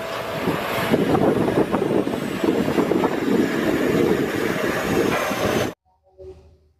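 A Tadano ATF 220G-5 all-terrain mobile crane driving past on a road: heavy diesel engine and tyre noise. It stops abruptly a second before the end.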